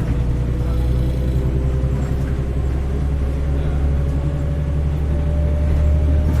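Heuliez GX317 LPG city bus running, heard on board: a steady low engine rumble with a faint whine that rises slowly in pitch.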